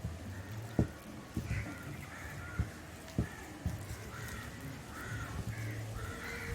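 A spoon mixing a thick spice paste in a bowl, with several soft knocks, while a bird caws repeatedly in the background.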